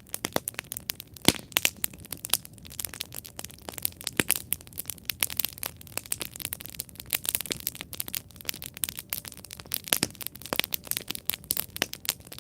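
Wood campfire crackling, with dense, irregular sharp pops and snaps over a soft hiss of burning. The loudest pops come about a second in and again near ten seconds.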